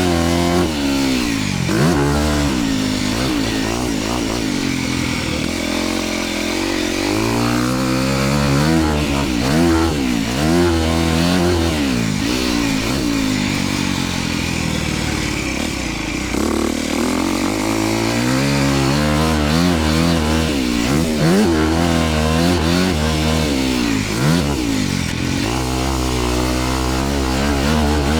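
Dirt bike engine being ridden around a motocross track, revving up and dropping back over and over as the throttle is opened and shut and gears change.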